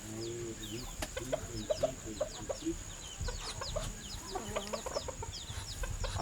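Chickens clucking, with many short, high, falling peeps throughout.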